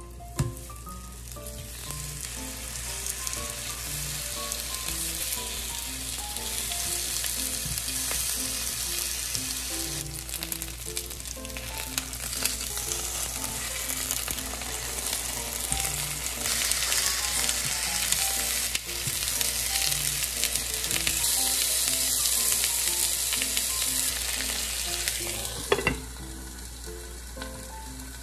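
Daikon gyoza frying in oil in a nonstick pan over medium heat, a steady sizzle that builds over the first few seconds and is loudest past the middle. Near the end a glass lid knocks onto the pan and the sizzle drops, muffled under the lid.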